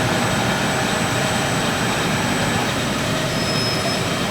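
Steady din of factory machinery running: a continuous mechanical noise with a faint, high, steady tone and no separate strikes.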